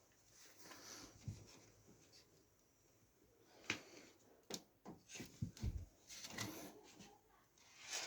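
Scattered small clicks and knocks of computer parts being handled, with a sharp click a few seconds in and a quick run of knocks after it.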